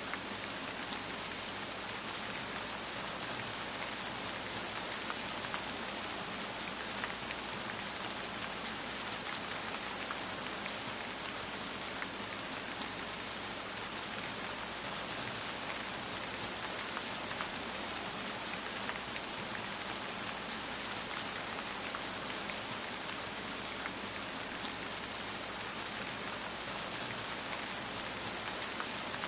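Steady rain falling, a dense even hiss with scattered small drop ticks throughout.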